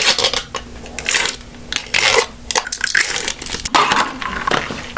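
Paper takeout bag and food wrappers rustling and crinkling in irregular bursts as fast-food packaging is handled and unpacked.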